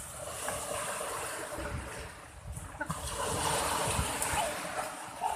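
Sea waves rushing and washing onto a beach, the surge swelling again about three seconds in.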